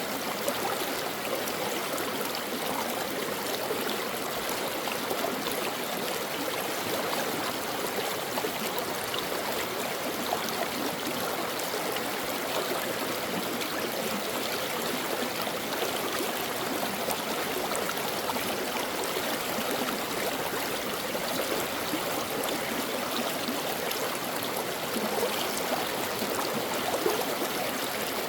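Mountain stream flowing over rocks: a steady rush of water with small gurgles and splashes throughout.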